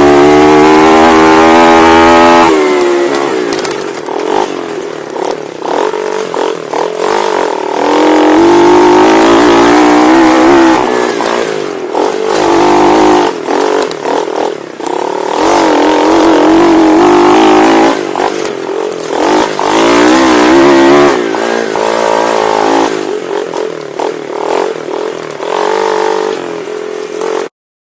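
Pit bike engine revving hard and easing off again and again as the throttle opens and closes, heard from the rider's onboard camera. The sound cuts off abruptly near the end.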